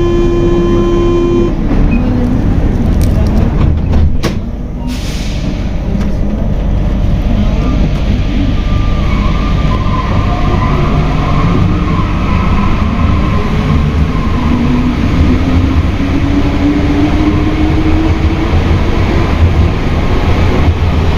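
Metro door-closing buzzer sounding steadily for about a second and a half, then a few knocks as the doors shut about four seconds in. After that the Alstom NS-93 rubber-tyred metro train pulls away, its traction motor whine rising in pitch as it accelerates.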